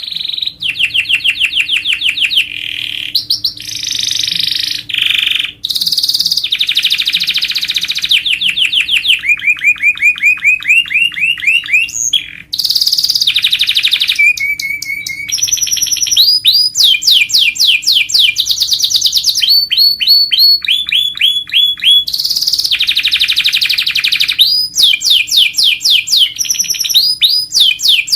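Domestic canary singing a long, loud song of rapid trills: each run of quickly repeated notes gives way to a new one every second or two, with only brief breaks. A faint steady hum runs underneath.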